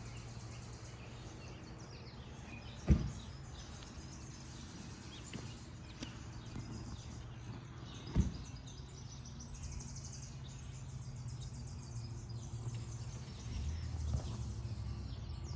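Outdoor garden ambience: birds chirping over a steady low hum, with two sharp knocks about three seconds and eight seconds in.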